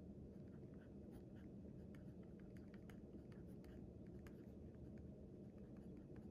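Faint scratching of writing on paper: short, irregular strokes over a steady low hum.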